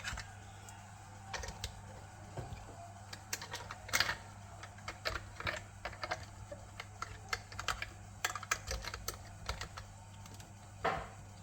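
Lego bricks being handled: irregular small plastic clicks and taps, some louder than others, over a low steady hum.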